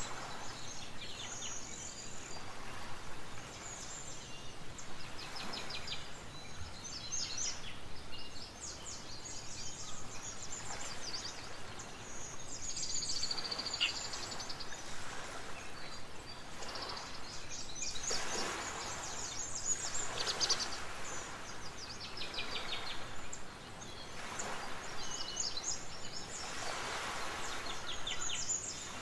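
Birds chirping and trilling on and off over a steady background hiss.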